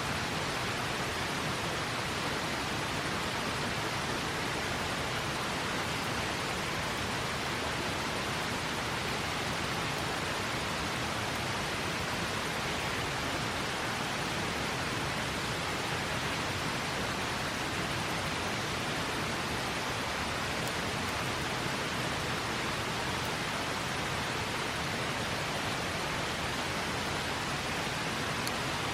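River water flowing: a steady, even rushing with no breaks.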